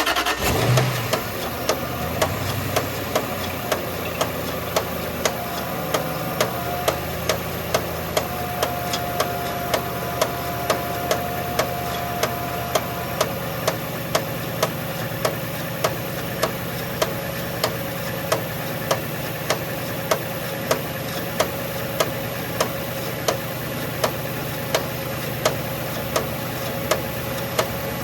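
Jaguar XK (X150) V8 engine starting on the push button and settling to idle. A sharp click repeats evenly about every two-thirds of a second, which is the strange sound the owner is asking about, and a faint whine drops in pitch partway through.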